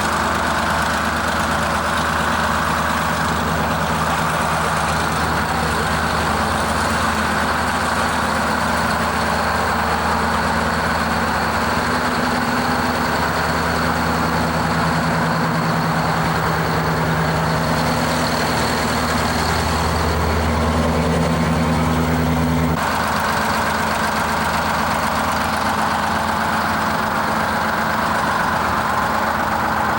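Heavy truck's diesel engine idling steadily, with an abrupt change in the engine sound about three-quarters of the way through.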